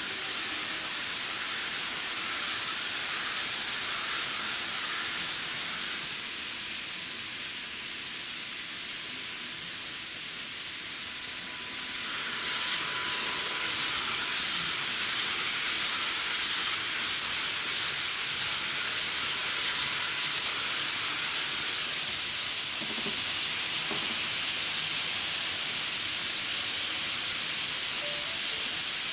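N gauge model train running on its track, a steady whirring hiss of wheels and motor that grows louder about twelve seconds in as it comes nearer.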